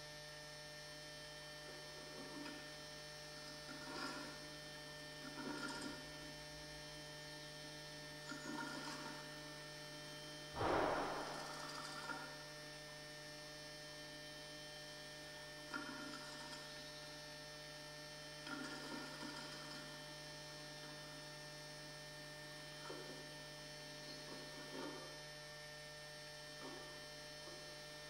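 Steady electrical hum with short scratchy rustles every few seconds, the loudest about ten seconds in: blue tits moving about and shifting nest material inside a nest box.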